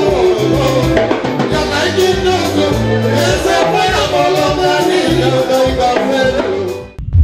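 Fusion band music with a steady beat, a pulsing bass line and shaker-like percussion. It cuts off abruptly near the end, and a loud, low rumble takes over.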